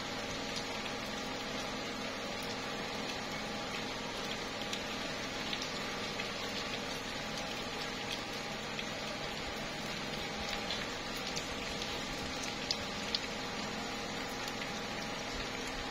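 Slow, steady rain falling on tree leaves: an even hiss with scattered small drop ticks and an occasional louder drip.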